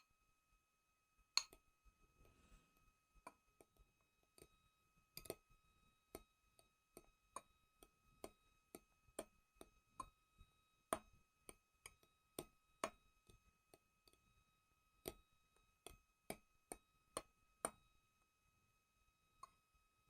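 Fork clinking against a plate while stirring batter: quiet, sharp ticks at an uneven pace, about two a second.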